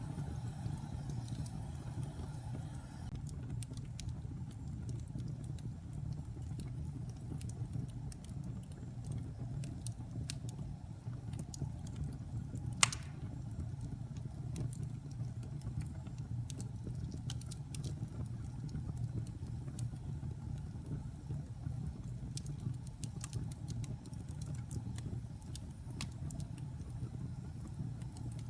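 Wood fire burning in a fireplace: a steady low rumble of the flames with scattered small crackles, and one sharp, loud pop about halfway through.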